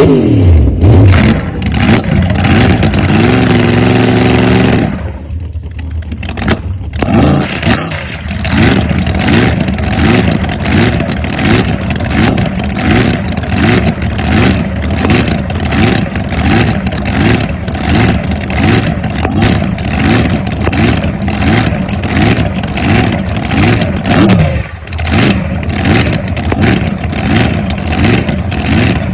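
Supercharged, fuel-injected big-block Chevy drag-boat engine running loud: a rev that falls away, a steady held pitch for a few seconds that cuts off briefly, then an uneven, lopey run with a steady rhythmic rise and fall.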